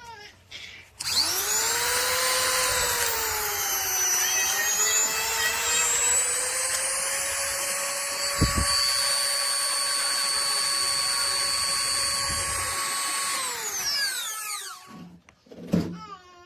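Small brushed electric chainsaw sharpener switched on: its motor whines up to speed, sags briefly in pitch, then runs steadily with a harsh grinding hiss before being switched off and winding down with a falling whine. A single knock follows near the end.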